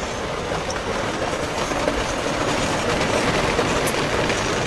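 Heavy rain of a rainstorm pouring down in a steady, even rush.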